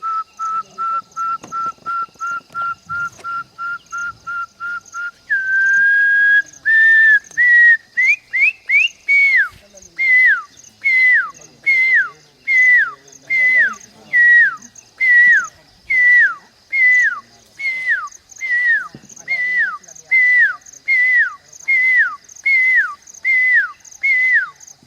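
A bird singing a long series of clear whistled notes. It starts with rapid, evenly spaced notes on one pitch, about three a second. About five seconds in it switches to a few longer, rising notes, then settles into a steady run of down-slurred whistles, a little under one a second.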